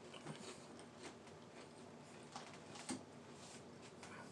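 Faint chewing and wet mouth clicks from a man eating a mouthful of cracker topped with ramen noodles and shrimp, with one sharper click about three seconds in.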